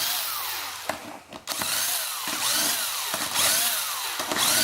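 Handheld power driver spinning out the already-loosened camshaft cap bolts on a 4G63 cylinder head, its motor whining in bursts that rise and fall in pitch, with a brief pause about a second in.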